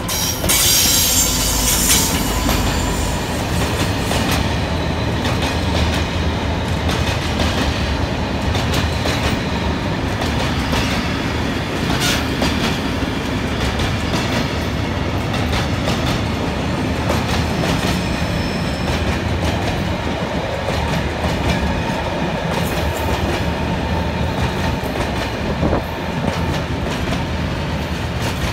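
Freightliner Class 66 diesel locomotive passing close by, its engine loudest in the first couple of seconds. A long rake of ballast hopper wagons follows, rumbling past with the clickety-clack of wheels over the rail joints and one sharp click about twelve seconds in.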